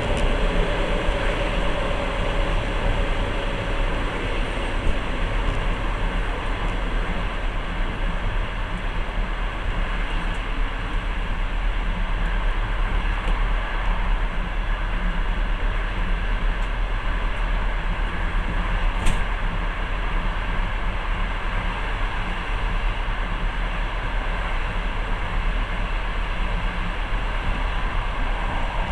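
Passenger train running at steady speed, heard from inside the carriage: a constant rumble of wheels on the rails and carriage noise. A single short sharp click about two-thirds of the way through.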